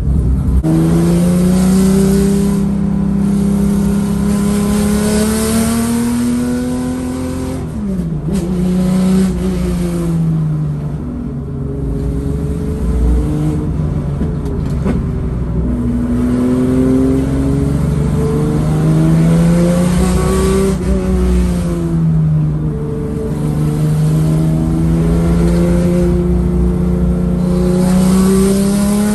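The Porsche 993's tuned 3.8-litre air-cooled flat-six engine pulling the car uphill. Its pitch rises under acceleration and falls off when the throttle lifts, again and again through the bends.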